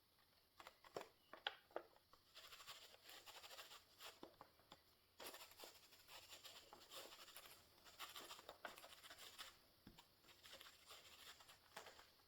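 Faint rubbing and dabbing of an ink blending tool worked over a leaf stencil on paper, in repeated short spells, with a few light taps in the first couple of seconds.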